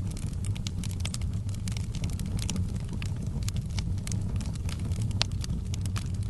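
Wood fire in a fireplace crackling: many small sharp pops over a steady low rumble of the flames, with one louder pop about five seconds in.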